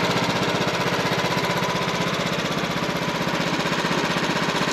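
Wood-Mizer portable sawmill's engine running steadily with a rapid, even pulsing beat, not under cutting load while the log is being measured and levelled.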